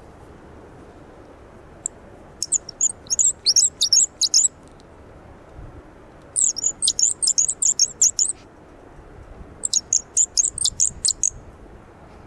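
Wooden twist bird call squeaked in three bursts of rapid, high chirps, about two seconds each, with short pauses between.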